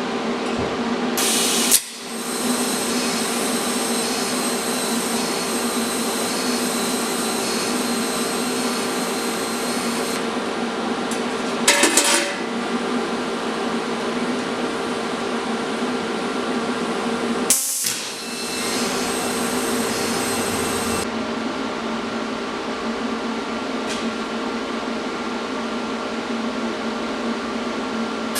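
Electric grinder running steadily with a constant motor whine as steel brackets are ground clean. The sound drops out briefly about two seconds in and again past halfway, with a short cluster of sharp clatters near the middle.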